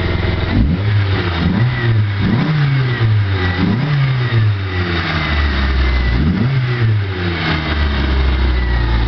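Ford Tempo engine running through an exhaust with the muffler removed, revved in several quick throttle blips, each rising and falling back, then settling to a steady idle for the last couple of seconds.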